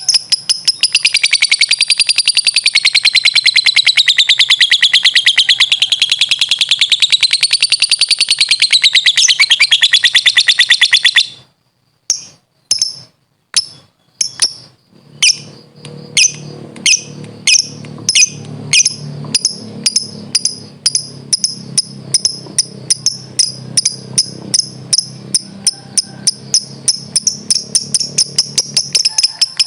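Lovebird's long ngekek: a rapid, high, unbroken chattering trill that wavers up and down in pitch for about eleven seconds, then stops abruptly. After a short pause the bird gives a steady run of separate sharp chirps, about two a second, over a low hum.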